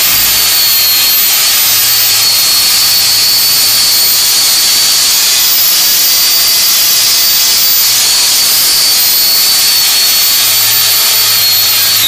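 Angle grinder running a Norton Vortex Rapid Finish disc to smooth down a weld on aluminium: a steady high whine over a hiss of grinding. Right at the end the grinder is let off and spins down with a falling whine.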